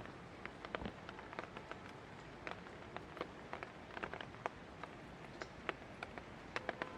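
Light rain falling: a steady soft hiss with irregular sharp ticks of drops striking a hard surface close by.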